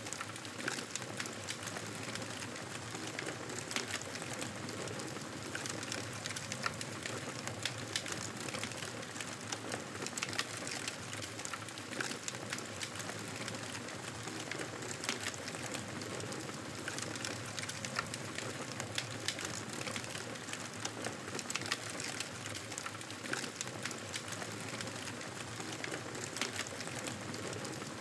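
Campfire burning, the wood crackling with frequent irregular sharp pops over a steady hiss.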